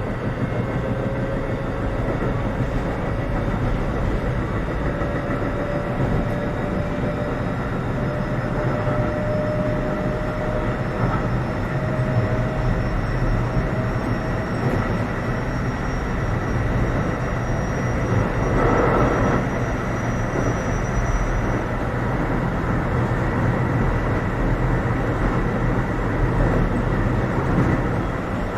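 Cabin running noise of a Keio 7000 series electric train: a steady rumble of wheels on rail, with a thin motor whine rising slowly in pitch over the first twenty seconds or so as the train gathers speed. A short swell of louder rail noise comes about two-thirds of the way through.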